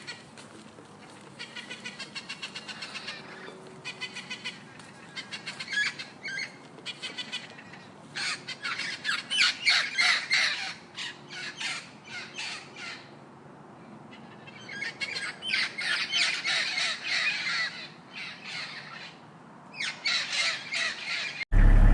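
Birds calling in repeated runs of rapid calls, each run lasting a few seconds, with short pauses between.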